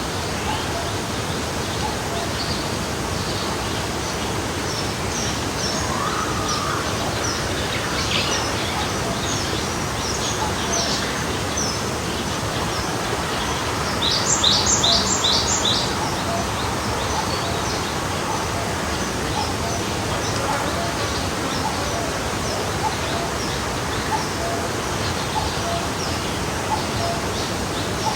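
Forest stream flowing steadily, with small birds chirping high and often over the water. About halfway through, one bird gives a louder run of about six quick high notes.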